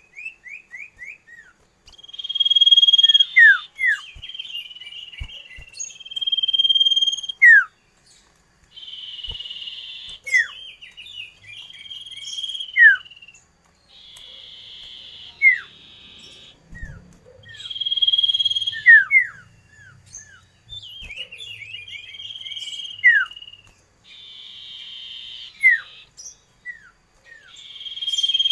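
Common iora (cipoh) singing a repeated phrase: a buzzy, trilling note held for about a second and a half, then a few quick down-slurred whistles. The phrase comes round every four to five seconds.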